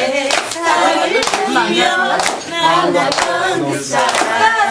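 People singing a song together, with hands clapping along in time, about two claps a second.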